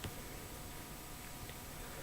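Quiet room tone: a steady faint hiss and hum, with a faint click at the very start and another about a second and a half in.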